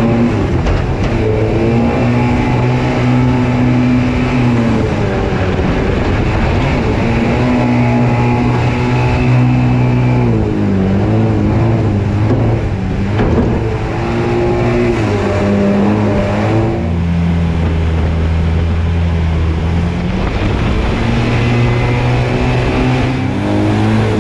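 SuperMini jet boat engine running hard at high revs. Its pitch holds steady for a few seconds, then dips and climbs again several times as the throttle is eased off and reapplied.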